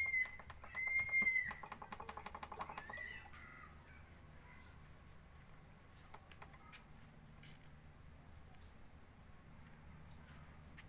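A bird calling: two arching whistled notes, then a fast rattling trill that dies away about three seconds in, followed by a few faint short chirps over a low steady hum.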